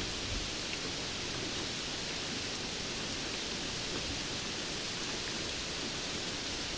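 Steady rainfall, an even hiss with no breaks or distinct drops.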